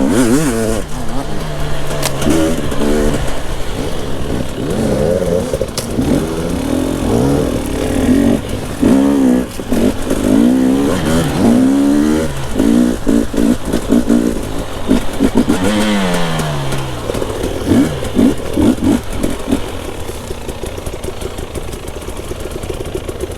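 Enduro dirt bike engine revving up and down repeatedly under the rider's throttle. About 16 seconds in there is a long drop in revs, and near the end it runs lower and steadier.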